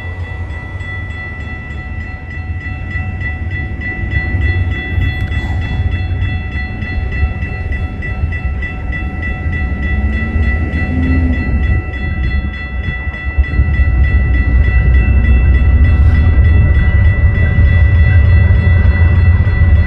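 A train rolling past with a heavy low rumble that grows louder, stepping up about two-thirds of the way through. A steady high ringing runs over it throughout, like a grade-crossing bell.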